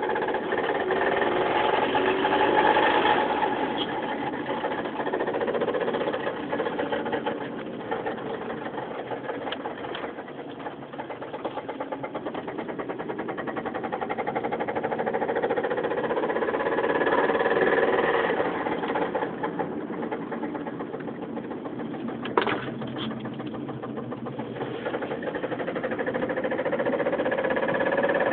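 2005 Mazda 3's four-cylinder engine running under way with a rapid, heavy rod knock from a failed connecting rod bearing and broken connecting rod. Engine speed rises and falls several times, and the knocking speeds up and slows with it. A single sharp click comes late on.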